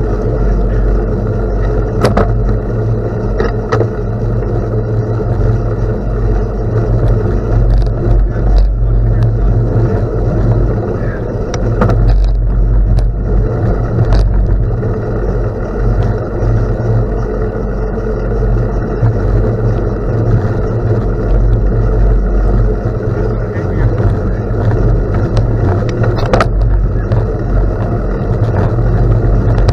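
Wind rumbling on the microphone of a bicycle being ridden on a gravel road, with steady tyre noise and a few sharp clicks and rattles from the bike.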